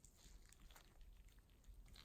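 Near silence, with a few faint small clicks.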